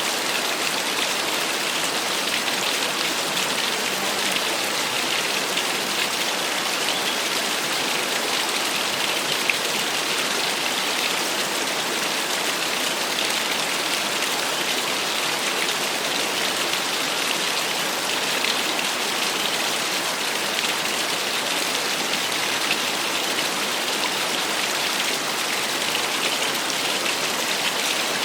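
Small waterfall: water splashing and rushing in a steady hiss, brightest in its upper range, without pause or change.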